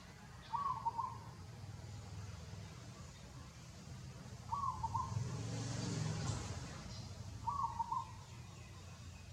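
A bird calling a short two-note hoot three times, about three seconds apart, over a low steady rumble. A louder swell of noise rises and fades in the middle.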